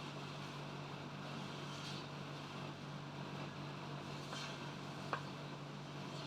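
Steady hum and whoosh of an air conditioner running, with a few faint clicks.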